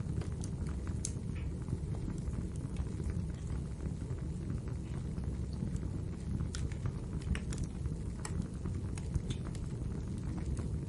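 Wood fire burning in a fireplace: a steady low rumble of the flames with scattered sharp crackles and pops, a few of them bunched together around the middle.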